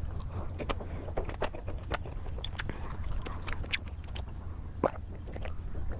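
Close-miked eating: a string of irregular sharp clicks and crunches from chewing and biting, over a steady low hum.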